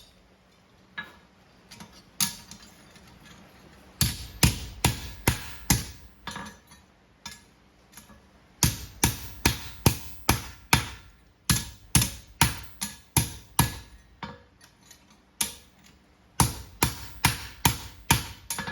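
Hand hammer striking a steel horseshoe on an anvil to flatten it: runs of sharp, ringing blows at about two a second, with short pauses between the runs. The first few seconds hold only a couple of light taps.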